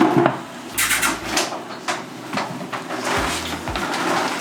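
Kitchen clatter: a series of sharp knocks and clinks of utensils, dishes and pots on hard surfaces.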